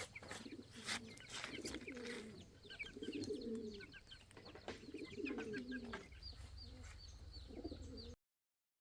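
Pigeons cooing in repeated low rolling bouts, with high chirps from small birds or chicks and a few sharp clicks; the sound cuts off abruptly near the end.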